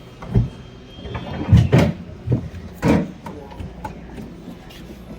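A series of about five knocks and thumps over three seconds, like something being handled or bumped, then quieter.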